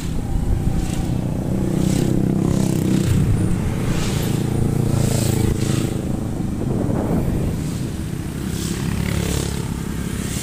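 Motorcycle engine running while riding in traffic, its note rising and falling with the throttle, over road and wind noise.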